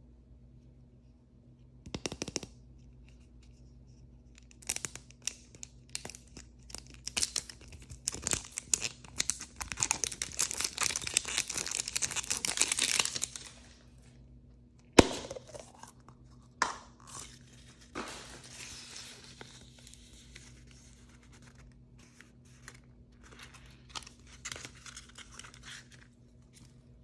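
Plastic wrapping of a mystery toy being torn open and crinkled in the hands. A long dense stretch of crackling gives way to three sharp clicks about halfway through, then softer rustling.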